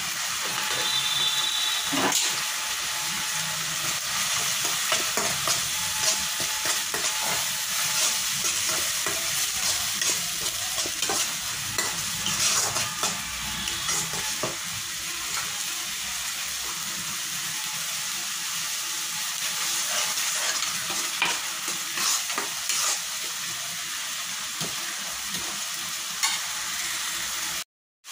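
Ground dal paste sizzling in oil in a kadai, stirred and scraped around the pan with a spatula, giving irregular scraping clicks over the steady sizzle.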